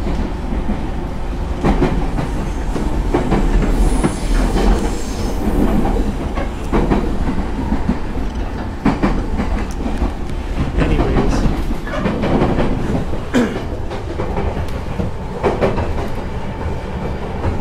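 Commuter train running, heard from inside the passenger car: a steady low rumble of wheels on rail with frequent irregular clicks and knocks from the car.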